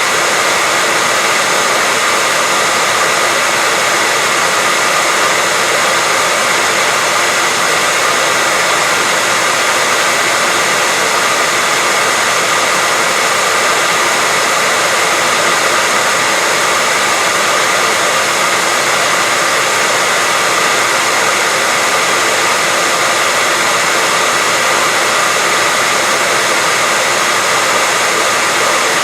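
Hair dryer running steadily: a constant, even blowing hiss with a faint whine from its motor, unchanging throughout.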